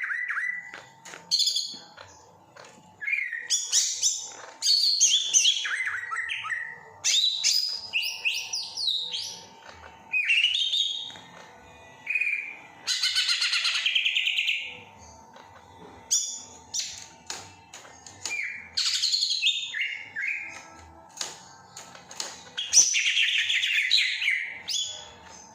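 Green leafbird (cucak ijo) singing a loud, varied song of rapid chirps, trills and sliding whistles in short phrases with brief pauses between them, mimicking the calls of other birds.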